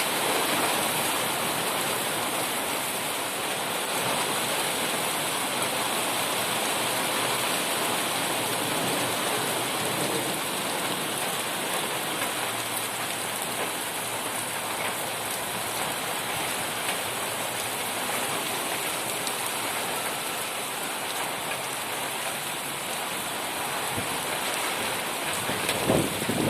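Heavy downpour: a steady, even hiss of rain falling, with a few louder knocks near the end.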